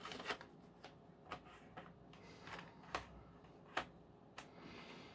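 Faint, sharp clicks and taps at irregular intervals, the loudest about three and four seconds in, as the brush bar is handled and fitted back into a Dyson V10 cleaner head.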